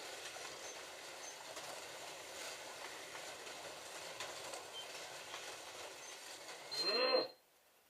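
Slot cars running on a plastic track: a steady whir of small electric motors and wheels on the track. Near the end a short shouted voice, then the sound cuts off abruptly.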